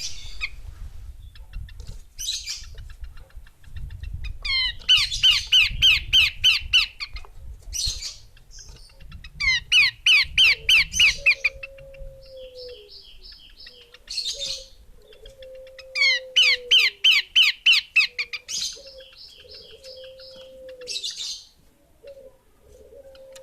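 Female Horsfield's babbler calling: bursts of two to three seconds of fast, repeated down-slurred notes, mixed with short harsh scratchy notes. From about halfway a lower whistled note repeats underneath, and a low rumble runs through the first half.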